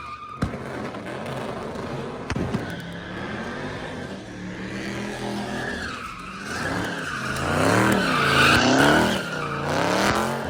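Car engine revving up and down with tyres squealing as the car spins its wheels; the revs rise and fall several times in the second half, loudest near the end.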